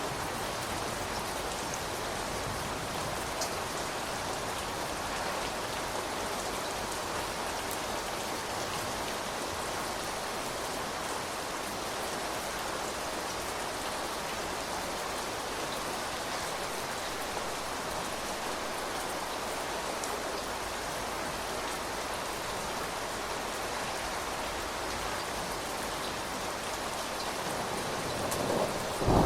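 Steady rain falling and pattering on surfaces at an even level. Right at the end a rumble of thunder begins.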